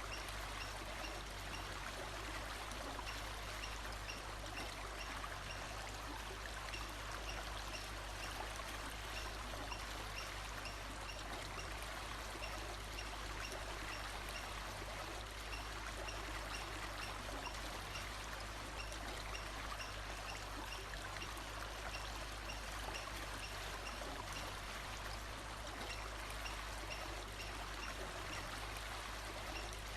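Steady rush of a running stream, with faint high chirps repeating at an even pace.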